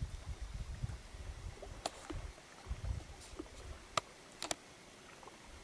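Wind rumbling on the microphone for about the first three seconds, with a few sharp knocks: one about two seconds in, the loudest about four seconds in, and a double knock just after.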